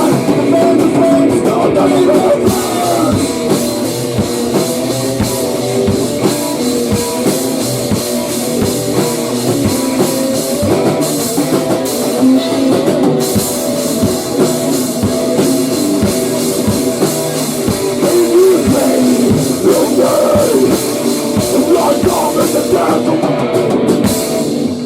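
Heavy rock band playing loud, with electric guitar and drum kit, breaking off abruptly at the very end.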